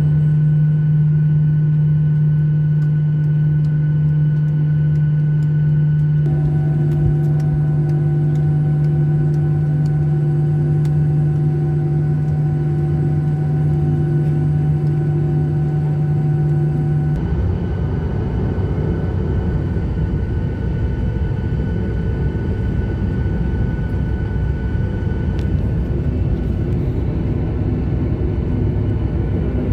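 Airliner cabin noise before takeoff: a steady engine and air-system hum with a strong low drone. About 17 seconds in, the drone gives way to a louder, rougher low rumble as the aircraft moves along the ground.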